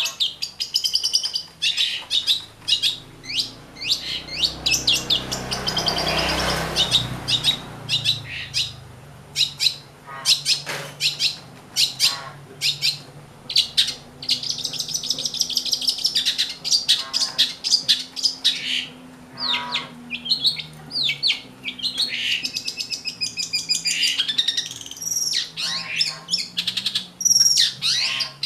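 Long-tailed shrike (cendet) calling in rapid, repeated sharp chirps and chattering phrases. A louder noisy rush comes about five to seven seconds in.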